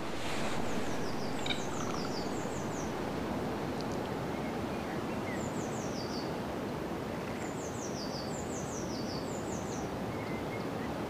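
Outdoor pond-side ambience: a steady background hiss with a small songbird singing short phrases of quick notes that fall in pitch, repeated every second or two.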